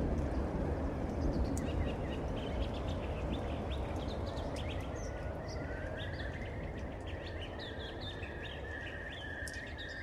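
Thunderstorm recording: a low rumble of thunder slowly dies away under the steady noise of the storm, while birds chirp, more and more often in the second half, with a held high note joining about halfway.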